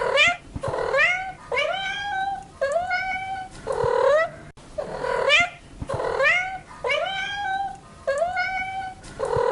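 A domestic cat meowing over and over, about ten meows at roughly one a second, each rising in pitch and then holding steady.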